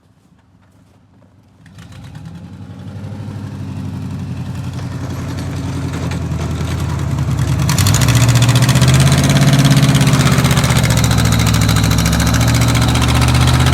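Vehicle engine that comes up about two seconds in and rises steadily in revs, then is run harder and louder from about eight seconds on.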